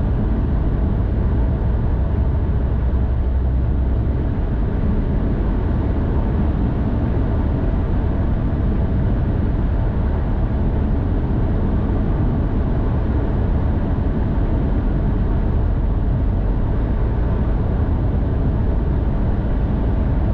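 Steady low road rumble of a vehicle travelling along a highway, tyre and engine noise with a faint steady hum over it, unchanging throughout.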